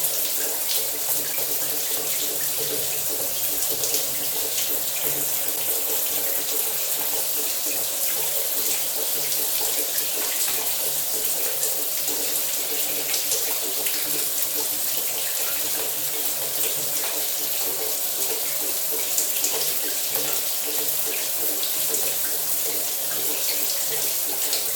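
Shower running steadily: a continuous hiss of spraying water with fine splashing droplets, over a faint steady low hum.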